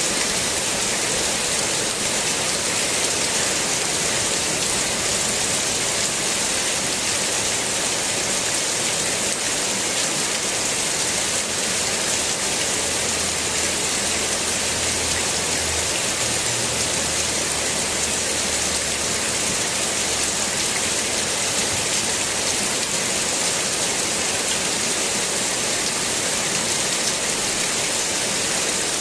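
Rain falling steadily on the leaves of yard trees and plants, an even hiss.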